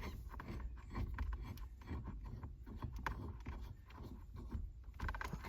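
Scattered light metal clicks and taps as bolts are fitted through a harmonic balancer puller into a steering wheel hub, over a low background rumble.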